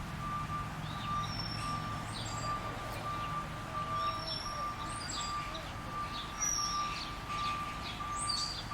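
Small birds chirping and whistling in short, scattered calls over a low traffic hum, with a steady, rapidly repeating high beep running throughout.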